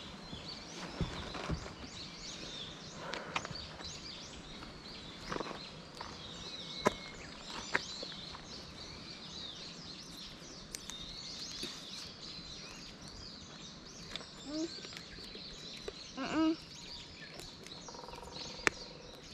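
Wild birds chirping and calling, many short high calls overlapping throughout, with a few sharp clicks and two short voice sounds in the second half.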